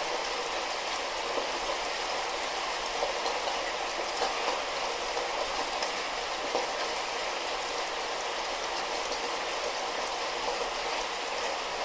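Light rain falling steadily, a dense patter of small drops with a few slightly louder drips now and then.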